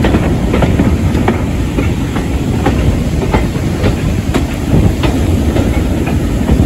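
A passenger train carriage running along the track, heard from its open window: a steady rumble of the wheels with irregular sharp clicks as they pass over the rails.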